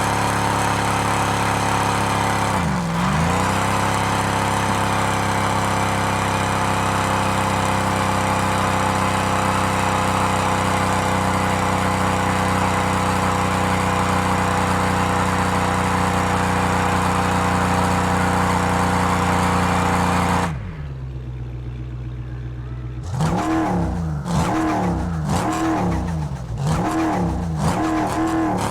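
Supercharged Dodge V8 held at high revs with a steady whine, dipping briefly about three seconds in. Near the end it drops back, then is revved repeatedly, the pitch rising and falling in quick blips.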